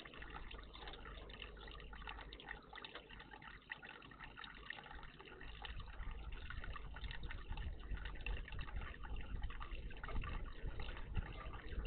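Water steadily trickling and splashing in a garden bird bath. A low rumble grows underneath from about halfway through.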